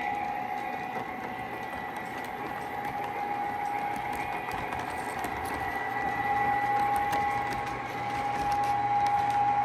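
O gauge Lionel GP-30 model diesel locomotive running on the layout with its train: a steady whine over the rolling rumble of wheels on the track, swelling a little in the second half.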